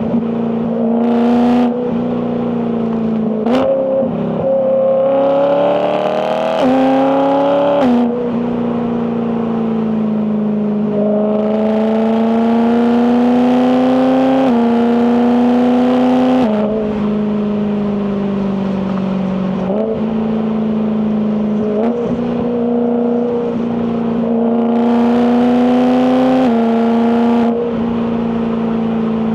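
BMW E92 M3's naturally aspirated 4.0-litre S65 V8 exhaust, loud, revving up in pitch under acceleration and dropping abruptly at several quick DCT gear changes, with steadier stretches of cruising between the pulls.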